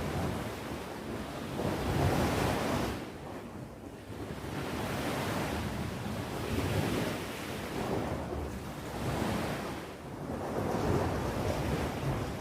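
Sea waves breaking and washing on the shore, the surf swelling and falling back in slow surges every few seconds, with some wind noise on the microphone.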